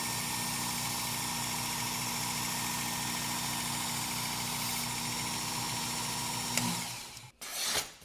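Work Sharp Ken Onion Edition belt sharpener running steadily, its motor humming under the hiss of the abrasive belt; about six and a half seconds in it is switched off with a click and winds down. A short rubbing stroke follows near the end.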